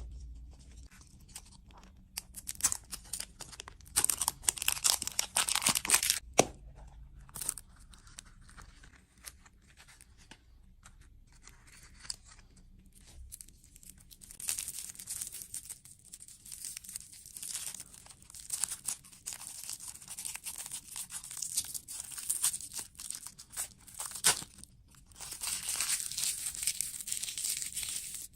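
Close-miked crinkling and tearing of food wrappers, in irregular crackly bursts with short pauses, loudest a few seconds in and again near the end.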